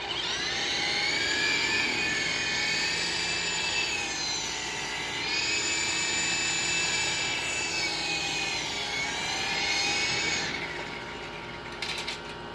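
High-pitched electric motor and rotor whine of an Extreme S-8G RC helicopter, running up sharply at the start, dipping in pitch twice as the throttle changes, then winding down about ten seconds in, followed by a few light clicks.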